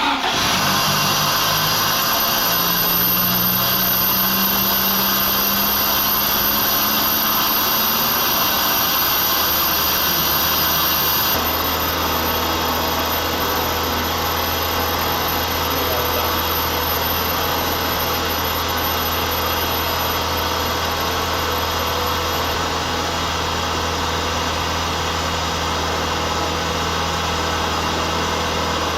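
Honda ZC 1.6-litre four-cylinder engine in a CR-X, just swapped in and running steadily at idle. The note changes about eleven seconds in and settles into a deeper, even hum.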